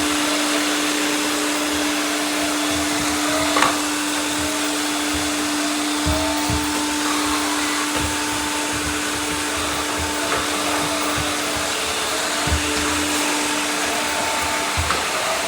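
Several robot vacuums running together: a steady whirring hum of their suction motors with a higher whine that comes and goes, and a few short knocks, the loudest about three and a half seconds in.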